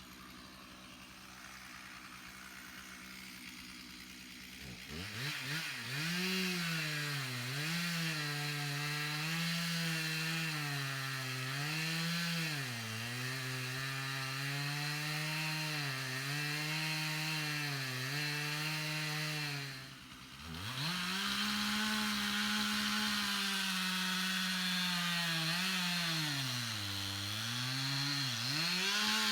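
Chainsaw cutting into a pine trunk to fell it, the engine's pitch sagging and recovering again and again as the chain bogs in the cut. It comes up to full revs about five seconds in, drops off briefly about two-thirds through, then revs up and cuts again.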